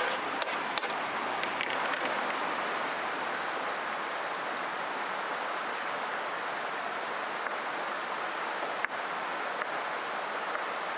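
River water flowing in a steady rush, with a few sharp clicks in the first couple of seconds and one more about nine seconds in.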